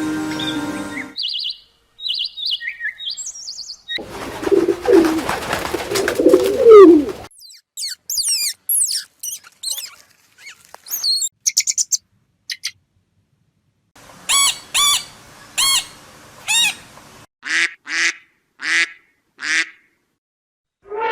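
A series of different birds calling, in short separate clips with silent gaps between them: high chirps, then fast whistled song phrases, then a run of repeated calls about twice a second.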